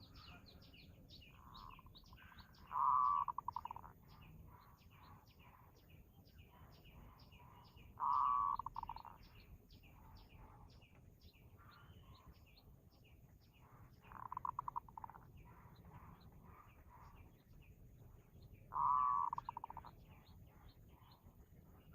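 Birds calling: a loud trilled call about a second long comes four times, roughly every five seconds, over constant rapid high chirping from small birds.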